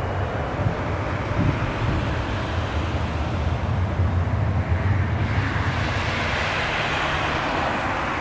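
Steady jet engine noise from a departing Ryanair Boeing 737-800's CFM56-7B turbofans: a deep rumble under a broad rushing sound that grows brighter about five seconds in.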